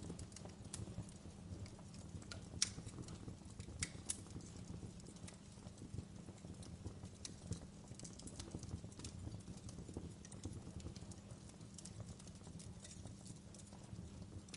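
Wood fire crackling in a fireplace: irregular sharp pops and snaps over a steady low rumble of the flames, with a louder pop about two and a half seconds in and another near four seconds.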